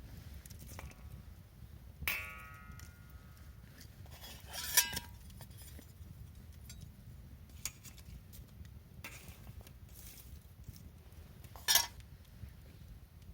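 Four sharp metallic clinks spaced over several seconds; the first rings briefly. A faint low rumble runs underneath.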